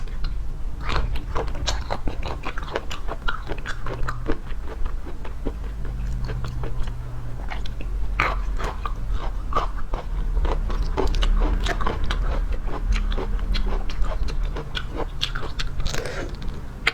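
Close-miked chewing and biting of raw seafood: a steady run of irregular wet clicks and crunches from the mouth.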